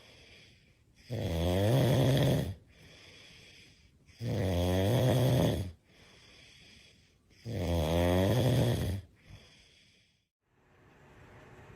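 A dog snoring: three long snores about three seconds apart, with quieter breaths between them.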